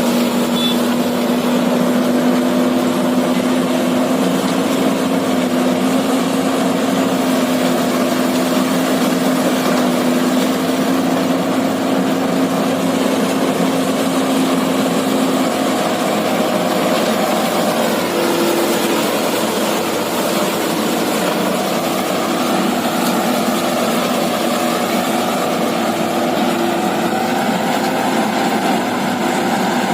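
Diesel farm machinery engines running steadily under load, as at a sugarcane harvest with a tractor and harvester together. The engine note changes about halfway through, one steady tone dropping out as others come in.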